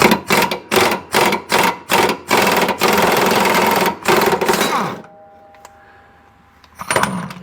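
Air impact wrench hammering in several short bursts and then one longer run of about two and a half seconds, loosening the blade nut on a mower deck spindle. A few light clicks follow, then a short burst near the end.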